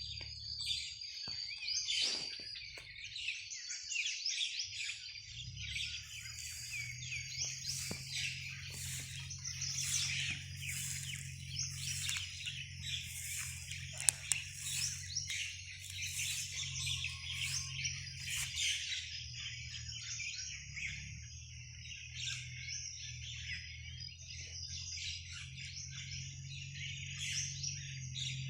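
A flock of birds chirping and calling together, a dense chorus of many overlapping short chirps. A steady low hum runs underneath from a few seconds in, and there is a single sharp click near the middle.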